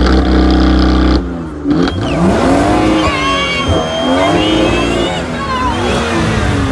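Performance car engines being revved hard while stationary: one held at high revs, then cut off abruptly about a second in, followed by repeated throttle blips whose pitch rises and falls.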